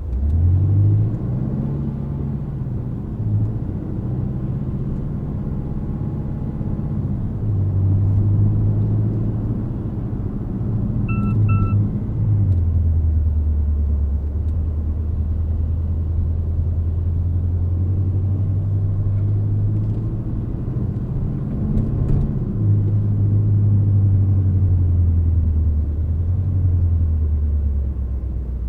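The Aston Martin Vantage's 4.0-litre twin-turbo V8 under way at moderate town speeds. The pitch rises about a second in as it pulls away, steps up and down through the gears, settles into a lower steady drone, and rises again a little past two-thirds of the way through. Two short electronic beeps sound around the middle.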